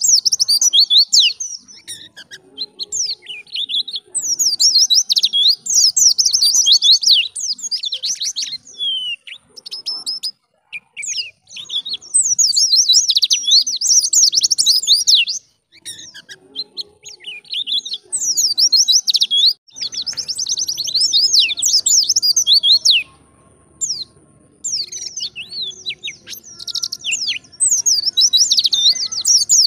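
White-eye (pleci) singing a fast, high twittering song in bursts of a few seconds with short pauses between them.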